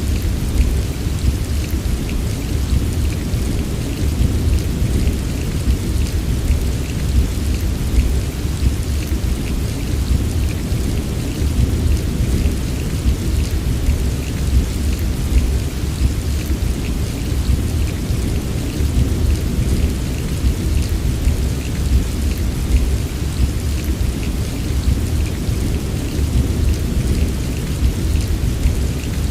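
Steady rain falling, with a continuous deep rumble underneath and the fine patter of individual drops on top, even throughout.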